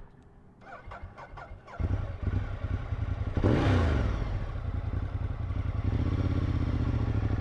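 Motorcycle engine pulling away from a stop and accelerating, after a few light clicks. The engine comes in sharply about two seconds in, surges briefly, then settles into a steady note under way.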